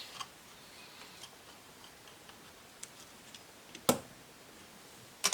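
Small clicks and taps of laptop parts and tools being handled during disassembly, with one sharp click about four seconds in and a quick double click near the end.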